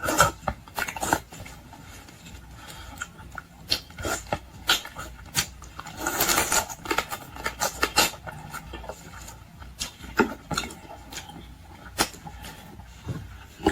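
Close-miked eating sounds of boiled shrimp and lobster: a run of irregular clicks, cracks and chewing noises, with a longer noisy stretch about six seconds in.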